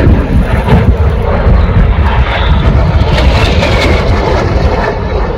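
Display aircraft flying past: loud, steady rushing engine noise with a deep rumble, and a faint whine that falls slightly in pitch about three seconds in.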